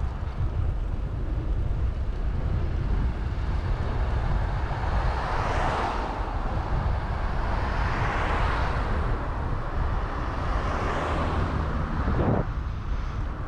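Wind rumbling on the microphone of a moving bicycle, with traffic swelling past and fading three times, and a short thump near the end.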